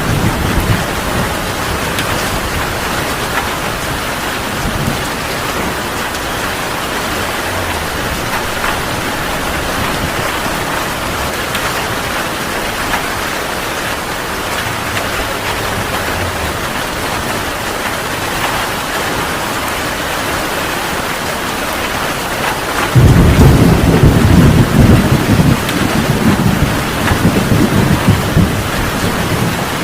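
Heavy rain falling steadily. About three-quarters of the way through, a loud, deep rumble of thunder breaks in suddenly and keeps rumbling on.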